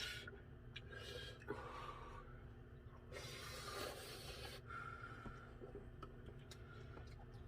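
Faint breathing and sharp hissing breaths from a person whose mouth is burning from spicy food, with a longer hissing breath about three seconds in.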